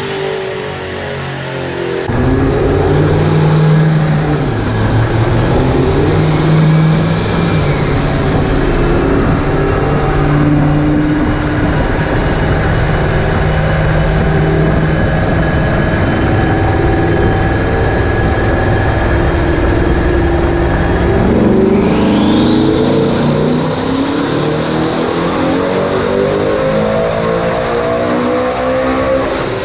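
Twin-turbocharged Ford Mustang V8 running steadily under load, then revving hard about two-thirds of the way in, as on a dyno pull. A turbo whine climbs to a high held pitch with the revs and cuts off near the end.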